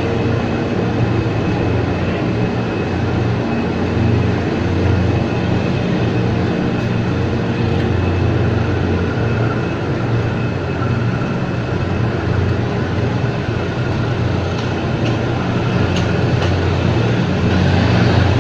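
Ex-JR 203 series electric multiple unit running on the rails: a steady low rumble of wheels and motors, with a faint high tone held throughout.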